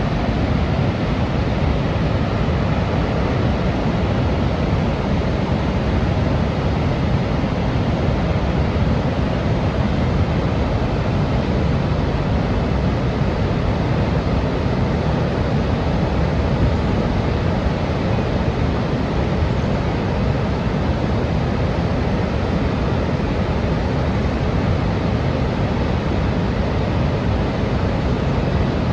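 Waterfall at Niagara Falls: a steady, unbroken rush of falling water, heaviest in the low end.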